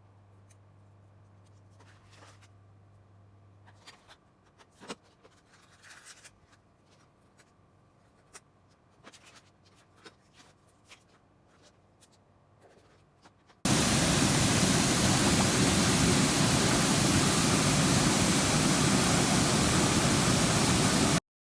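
Faint scattered light clicks and taps, then a loud, even hiss that starts abruptly about two-thirds of the way in, holds steady for several seconds and cuts off sharply near the end.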